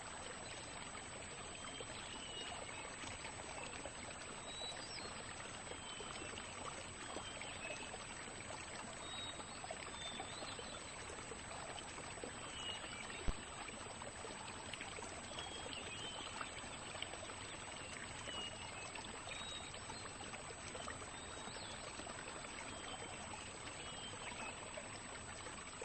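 Faint, steady wetland ambience of trickling, flowing water, with faint short high bird calls here and there and one sharp click about thirteen seconds in.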